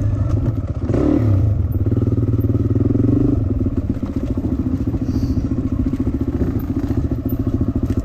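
Dirt bike engine running under a rider, revving up about a second in, holding a higher note for a couple of seconds, then easing off to a lower, steady note.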